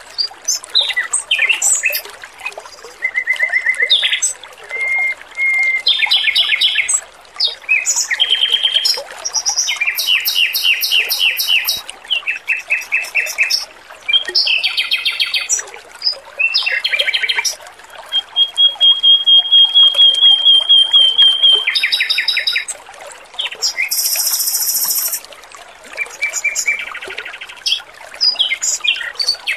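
Male Pekin robin (red-billed leiothrix) singing in separate bursts of rapid repeated notes and trills, one long even trill about two-thirds of the way through, over a steady trickle of running water.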